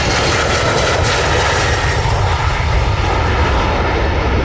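Jet airliner's engines, a loud steady rumble with a high whine that slowly falls in pitch, the highest part fading near the end as the aircraft moves away.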